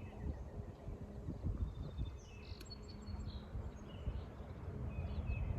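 Birds chirping faintly, short scattered calls mostly in the middle and near the end, over a low rumble. A single sharp click a little past halfway.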